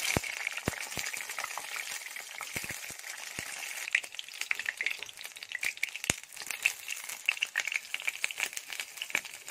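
Whole slit small brinjals sizzling and crackling as they fry in hot oil in a steel kadhai, with a few sharp clicks and knocks scattered through.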